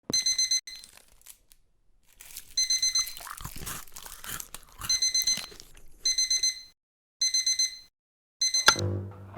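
An electronic alarm beeping in short bursts of rapid beeps, about six bursts in all, with rustling and crunching between them. Music with low plucked and bowed strings comes in near the end.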